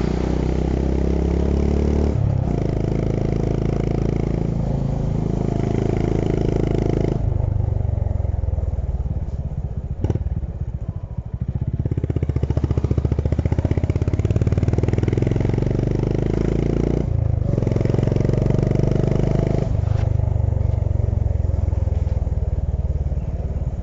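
Honda H'ness CB350's air-cooled single-cylinder engine running under way, pulling through the gears with several brief breaks in the exhaust note at the gear changes. It eases off for a few seconds around the middle, then pulls up again.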